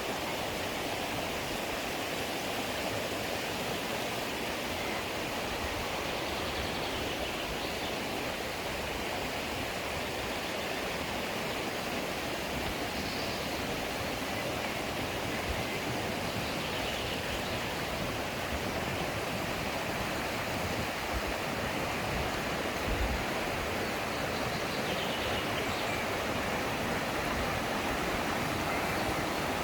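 Mountain stream rushing steadily over rocks, an even flow of water noise.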